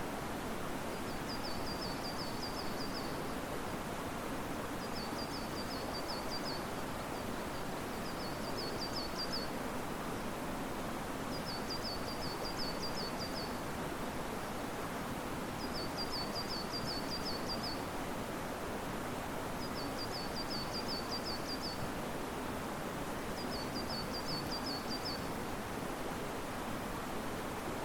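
Steady rush of a mountain river's flowing water, with a small bird singing short, high, rapid trilled phrases about every three to four seconds, seven times.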